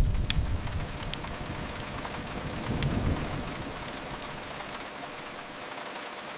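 Steady rain hissing, with a low rumble that fades just after the start and swells again about three seconds in, and a few faint crackles of a wood fire.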